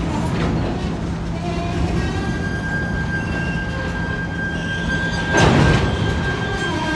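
Freight train cars rolling past on the rails, a steady rumble of wheels with a thin high wheel squeal setting in about two seconds in. A brief louder burst of noise comes a little past the five-second mark.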